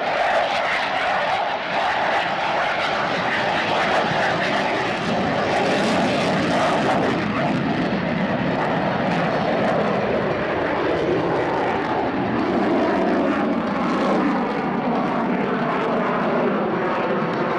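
Engine of an aerobatic display airplane running in continuous flight, a steady roar that slowly falls in pitch.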